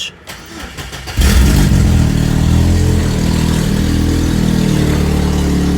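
Chevy S10 pickup engine starting about a second in and settling into a steady idle, running on freshly changed oil and a new filter.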